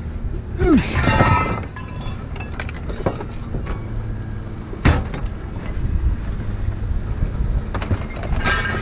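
Hard objects clinking and clattering as curbside junk is handled, with a sharp knock about five seconds in, over the steady low hum of an idling vehicle engine.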